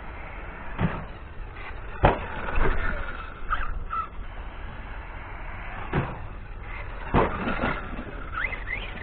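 Arrma Kraton 6S RC truck being driven hard: short rising whines from its electric motor and drivetrain as it accelerates, twice, and four sharp thumps from landings or impacts, over a steady rushing noise. The drivetrain carries a loud whine that the owner has not cured by changing the diff fluids.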